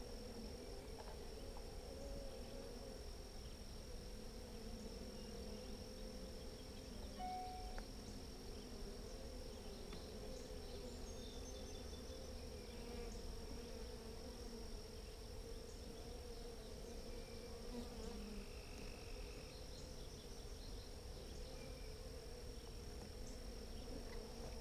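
Honeybees buzzing around an open hive, a steady, slightly wavering hum.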